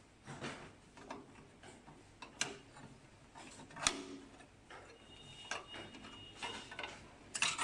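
Irregular small clicks and light metallic taps from a screwdriver and small metal parts, as screws are undone and pieces of a printer's ink pump assembly are taken off. A brief metallic ring comes about two-thirds of the way in.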